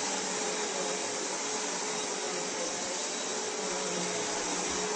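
Vacuum cleaner running steadily with a loud, even whoosh and a faint motor hum.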